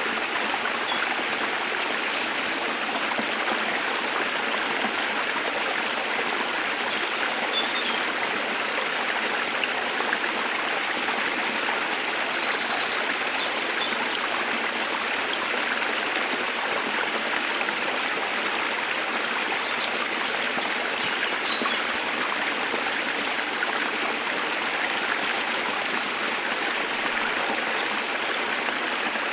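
Steady rush of a waterfall, with a few faint short bird chirps scattered through.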